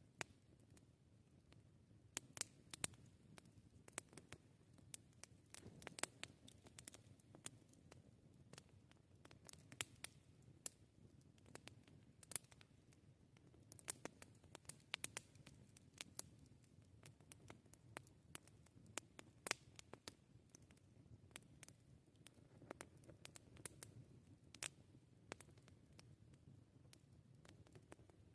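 Wood campfire crackling quietly: irregular sharp pops and snaps, some in quick clusters, over a faint low hiss of the burning fire.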